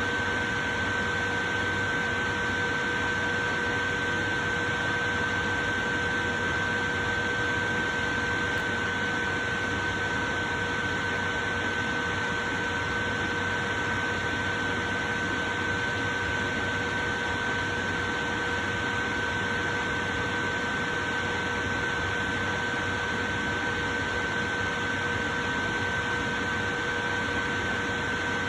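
Portable electric fan running steadily: an even rush of air with a constant motor hum.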